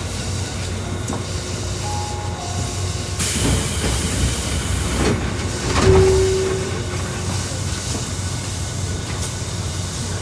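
Tokyu Toyoko Line commuter train running, heard from on board: a steady low rumble from the running gear. A loud rush of hiss comes in about three seconds in and lasts a couple of seconds, and a short tone sounds near the middle.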